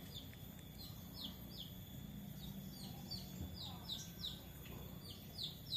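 A small bird chirping repeatedly in short, high, falling notes, coming faster near the end.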